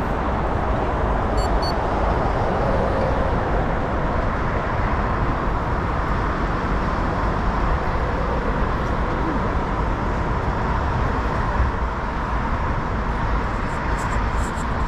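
Steady rushing noise of riding a road bike: wind buffeting an action camera's microphone, mixed with tyre and road noise.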